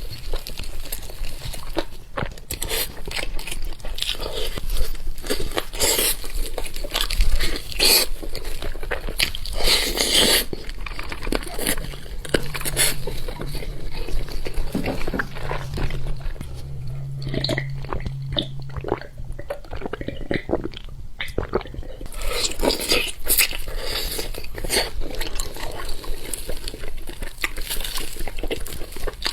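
Close-miked eating of spicy sheep's head: biting and chewing, with many irregular crunches and clicks.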